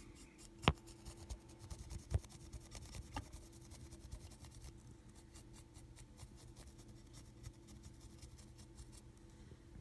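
Paintbrush dry brushing a cast Hydrocal plaster wall: quick, faint scratchy strokes of the bristles over the surface, with a few louder taps in the first three seconds. The strokes stop about nine seconds in.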